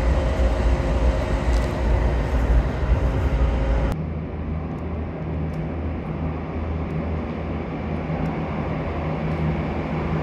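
Rumble and rattle of a moving train heard from inside the carriage. About four seconds in it cuts to a quieter, steady low hum, with faint clicks, of a train approaching through the tunnel toward an underground platform.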